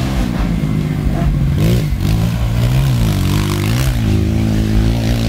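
Motocross motorcycle engines running hard, their pitch rising and falling several times as the throttle is opened and closed.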